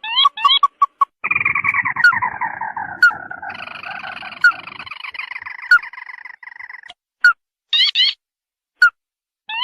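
Ruddy-breasted crake (burung tikusan) lure call: groups of quick rising chirps, then a long descending trilling whinny that runs for several seconds, with single sharp pips about once a second. Near the end come more short chirp groups.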